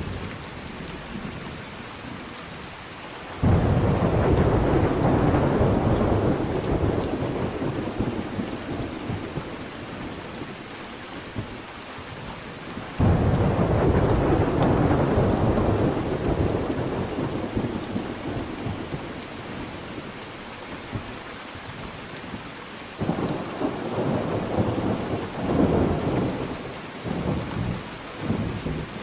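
Thunderstorm: steady rain with loud thunder. Two sudden thunderclaps, about three and a half seconds in and again about thirteen seconds in, each rumble and fade over several seconds, and a run of shorter rumbles follows near the end.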